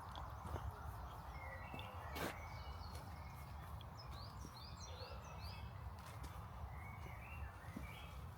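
Small birds chirping in short repeated calls, over a steady low rumble. Footsteps tap about once a second, one sharper tap about two seconds in.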